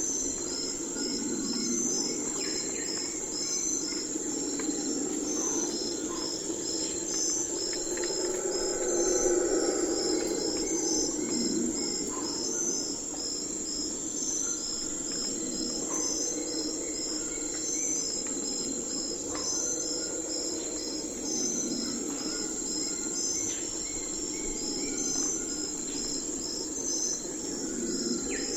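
Night forest ambience: crickets and other insects chirping in a steady, even pulse over a continuous high insect drone. Beneath them runs a low rushing background that swells about a third of the way in, with scattered short calls.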